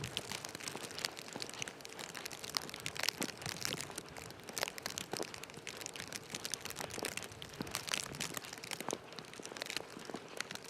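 Dense, irregular crackling and crinkling: many small sharp clicks at uneven intervals over a faint hiss.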